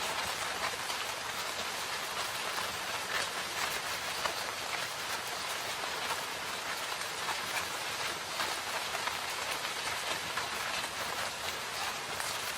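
Steady rain falling in a forest, an even hiss of rain with many small drop impacts pattering through it.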